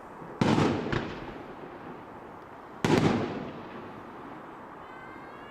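Fireworks exploding in the air: two loud bangs about two and a half seconds apart, each with a quick crack after it and a rolling echo that dies away. Near the end comes a faint rising whistle.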